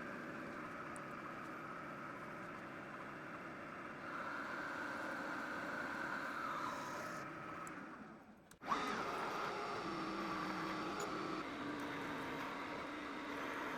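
Metal lathe running and cutting steel, a steady machining noise with a slowly shifting tone. It cuts off abruptly about eight and a half seconds in and starts again at once, two separate takes joined together.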